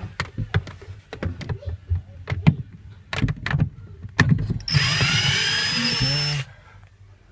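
A few knocks and clicks of handling, then a power drill runs for about two seconds, driving out a screw from a fridge freezer's back plate, and stops suddenly.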